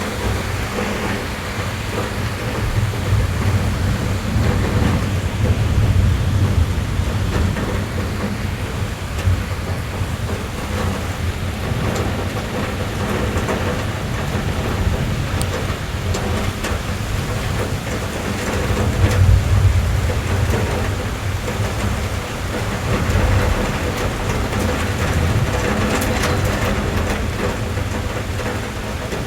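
Rain tapping on a car's roof and windows, heard from inside the cabin: a steady patter over a deep low rumble that swells and fades several times.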